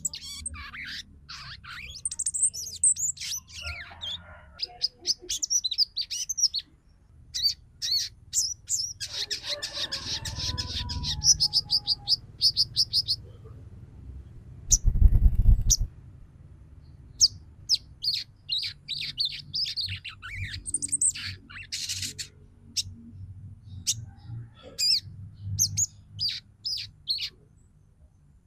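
Female sogon calling: repeated high, sharp chirps and quick chattering trills, the kind of call used as a lure to get male sogons singing and excited. A low thump about halfway through is louder than the calls.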